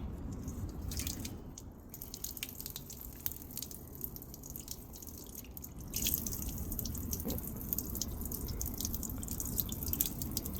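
Water dripping and splashing in quick, irregular drips, getting louder and busier about six seconds in.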